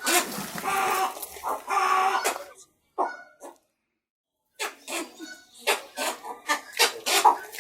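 Chicken calling: two drawn-out squawking calls, then a pause of about two seconds, then a rapid string of short clucks.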